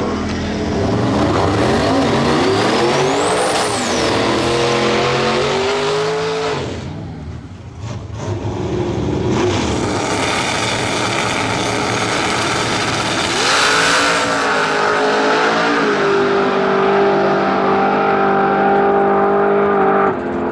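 Drag race car engines running hard, rising in pitch as they accelerate. There is a brief drop about seven seconds in, then another climb, and the engine holds a steady high note near the end.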